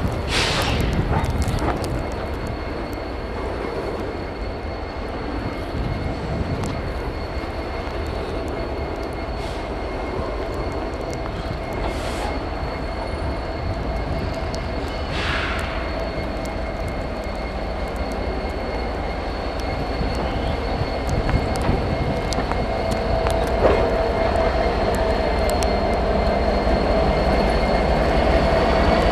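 Diesel freight locomotives running in a rail yard: a steady low rumble with a steady high whine, with two brief hisses near the start and about halfway, growing louder over the last several seconds.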